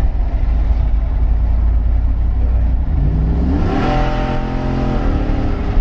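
Ford truck's engine, with catless headers and a temporary exhaust, droning at steady speed and then opened up to wide open throttle about three seconds in. Its pitch climbs and holds before it lets off near the end.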